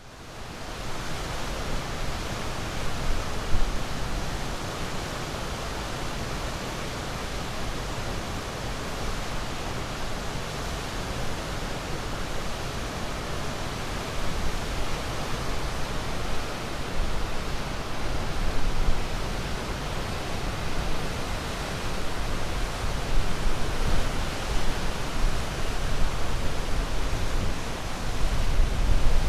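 Sea waves washing in as a steady, unbroken rush of water noise. It rises in quickly at the start and grows a little louder and more uneven toward the end.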